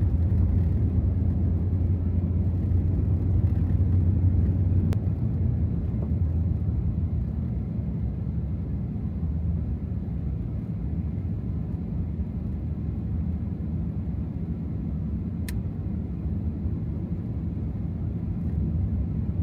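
Steady low rumble of a 2024 Ram TRX pickup driving through snow, its supercharged V8 and tyres heard from inside the cab, a little louder in the first few seconds.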